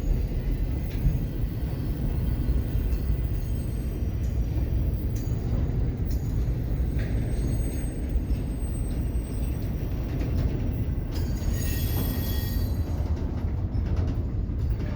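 CPKC train's cars rolling past: a steady, loud rumble of steel wheels on rail with occasional clicks. A short high-pitched squeal comes near the end.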